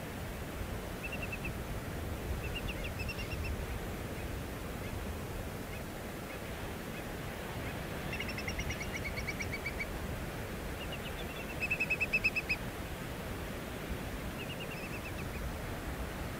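Wetland birds calling in short bouts of rapid, chattering trills, several bouts spread through, the loudest about three quarters of the way in. A steady low rushing noise runs beneath them.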